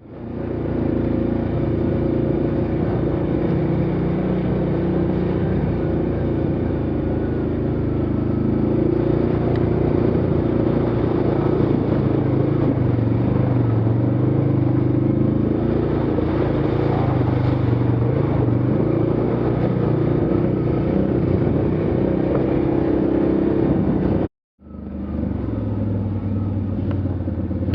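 Off-road vehicle's engine running while riding, its pitch rising and falling with the throttle. The sound cuts out for a moment about 24 seconds in, then picks up again.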